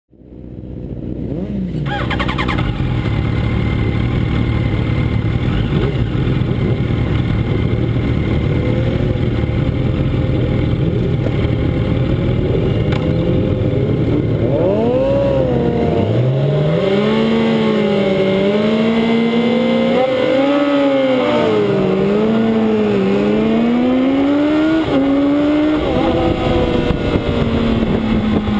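Yamaha R1 sport bike's inline-four engine ticking over on the starting grid with a few short blips of the throttle, then launching off the start about halfway through. It revs hard up through the gears, its pitch climbing, dropping back at each upshift and climbing again.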